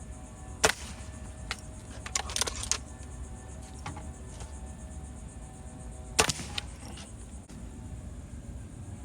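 Two sharp clicks about five and a half seconds apart, with a brief clattering rattle between them, over a steady low rumble.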